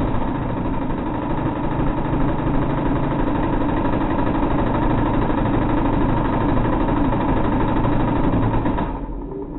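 Close-in weapon system rotary cannon firing one long sustained burst, its very high rate of fire merging into a continuous buzz that trails off about nine seconds in.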